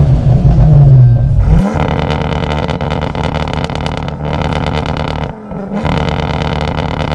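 Tuned Ford Focus RS five-cylinder turbo engine, heard loud from inside the cabin with its note rising slightly. After a cut about one and a half seconds in, it is heard idling at the exhaust with a rapid, even, lumpy beat, and the note briefly dips and rises again past the middle.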